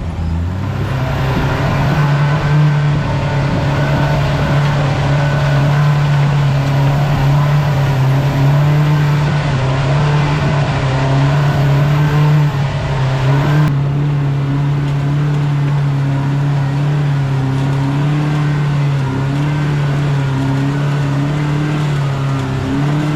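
Polaris RZR Pro R's four-cylinder engine revving up in the first second, then running at a steady high speed with road and trail noise. Near the end it dips briefly and picks up again.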